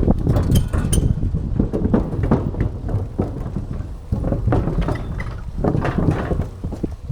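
Bicycle riding along a path: irregular rattling and knocking from the bike, with low wind rumble on the microphone.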